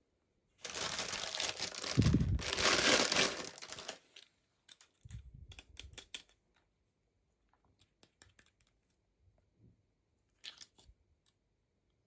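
Toy packaging being torn and crinkled for about three seconds, followed by scattered light clicks and rustles of handling.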